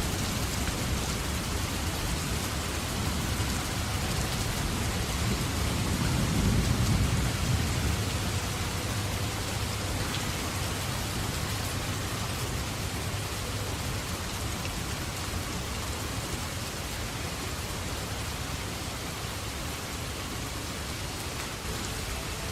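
Steady heavy rain falling on the forest, with a low rumble of thunder swelling about six seconds in and slowly fading.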